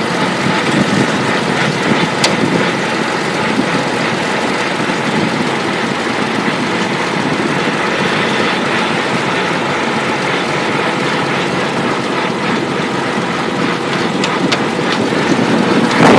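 A steady engine drone, unchanging throughout, with one faint click about two seconds in.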